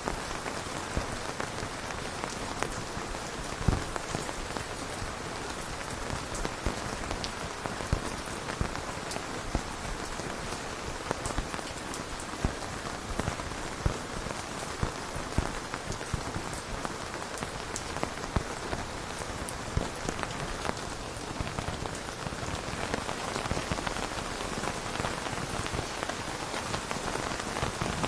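Steady rain falling on a hard surface, with many separate drops ticking through the even hiss.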